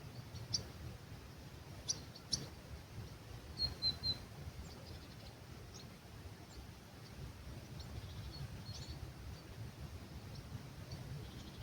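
Several birds calling at dawn, short scattered chirps and a few brief high notes, with a brighter burst about two and four seconds in, over a soft steady breeze.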